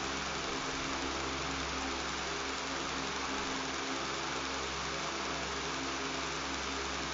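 Electric fan running steadily: a constant airy hiss with a low buzzing hum underneath.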